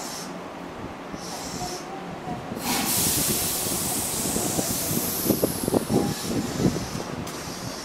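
Tobu 8000-series electric commuter train starting off: a loud hiss of air as the brakes release, beginning about three seconds in, then a run of clanks and knocks as the train begins to roll.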